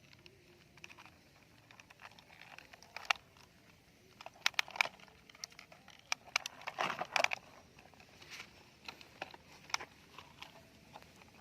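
Small plastic toys being handled and cleaned: scattered light clicks and knocks, with a cluster of sharper clicks about five seconds in and a short rustling, scraping burst around seven seconds in.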